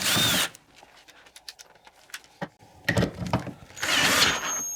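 Power drill boring out a bolt hole in a motorcycle foot-peg part, run in short bursts: one about half a second long at the start, then after a quieter couple of seconds with small clicks, two more bursts near the end with a steady high motor whine. The bit is grabbing hard in the hole.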